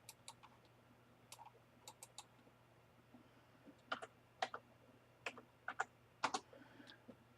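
Computer keyboard keys being tapped in scattered keystrokes, entering a dimension into CAD software; the taps come closer together and louder in the second half.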